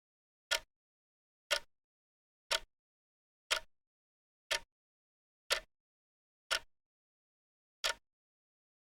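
Clock ticking sound of a countdown timer: short, sharp ticks once a second, with silence between them.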